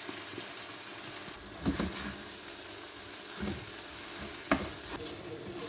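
Tomato-onion masala sizzling in a frying pan as spices are stirred in with a spoon, with a few knocks of the spoon against the pan, the sharpest about four and a half seconds in.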